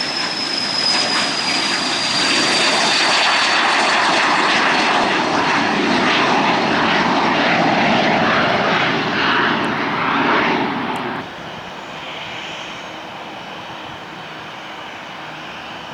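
Cessna Citation Mustang's twin Pratt & Whitney PW615F turbofans running, a loud roar with a high whine slowly falling in pitch. About eleven seconds in the sound drops abruptly to a much quieter engine hum.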